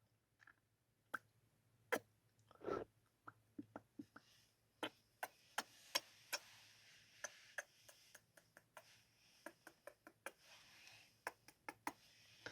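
Close-miked ASMR kissing sounds: a long, irregular string of short, wet lip smacks and mouth clicks, about two a second, with a few soft breaths between them.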